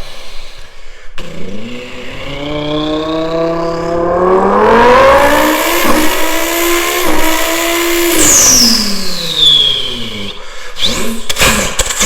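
A person vocally imitating a turbocharged Lamborghini Huracán STO. The imitated engine revs up in rising pitch for about four seconds and holds high, then drops with a descending whistle like a turbo blow-off about eight seconds in. Sharp crackles follow near the end.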